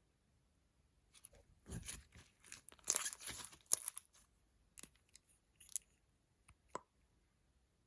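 Crunching and crackling handling noises of makeup being worked into slime: a dense crackly run for about three seconds, then a few scattered clicks.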